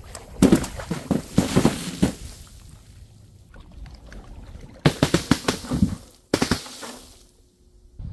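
Three bursts of crashing and splashing: filled containers dropped and bursting, each a quick run of impacts with liquid spraying out. The last one starts sharply and fades over about half a second.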